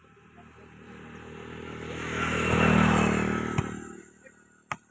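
A motor vehicle engine passing by: it grows louder to a peak about three seconds in, then fades away. A single sharp smack comes near the end.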